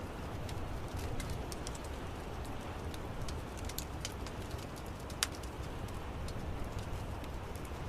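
Wood fire crackling: scattered small pops and snaps over a steady low rumble of the burning fire, with one sharper pop about five seconds in.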